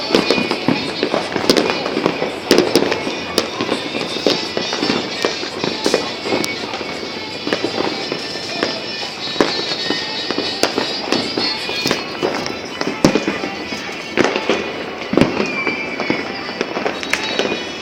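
New Year's fireworks and firecrackers going off all around: a constant crackle broken by many sharp bangs at irregular intervals, with music playing in the background.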